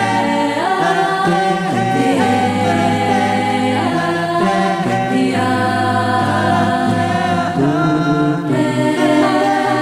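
A cappella vocal group singing in close harmony: a sustained bass line under several moving voice parts, with no instruments.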